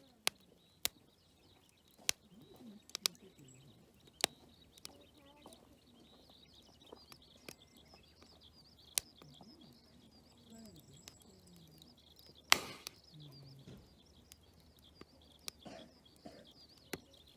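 Wood campfire crackling, with sharp, irregular pops and one louder, longer crackle a little past the middle.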